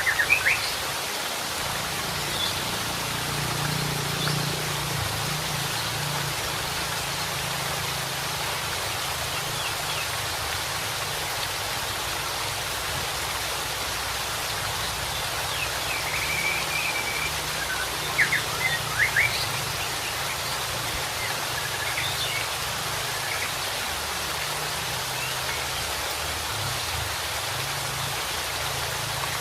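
Steady rushing of running water, with short whistled phrases from a white-rumped shama: a quick burst at the start, a few louder phrases a little past halfway, and more near the end.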